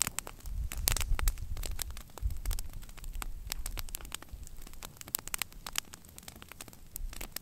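Wood fire crackling, with frequent irregular sharp pops and snaps.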